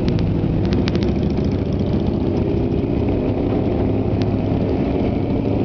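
Motorcycle engines idling steadily, with a few sharp clicks in the first second and one about four seconds in.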